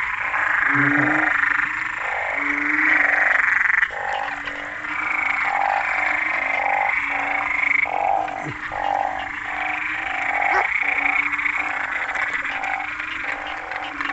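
A dense breeding chorus of narrow-mouthed frogs (อึ่ง, banded bullfrogs) calling after rain. Many short, low calls repeat and overlap about every half second over a steady higher-pitched chorus.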